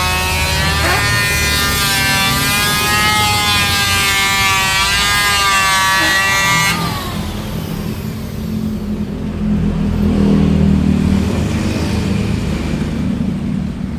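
Electric woodworking power tool running with a loud, high whine whose pitch wavers under load. It cuts off abruptly about seven seconds in, leaving a lower rumble that swells and fades.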